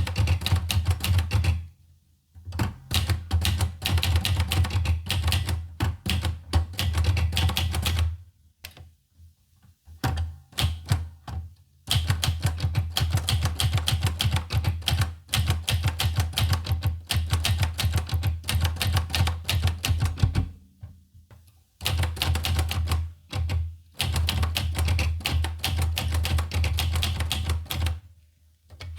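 Olivetti Lettera 25 manual typewriter being typed on: fast runs of key strikes, broken by a few short pauses.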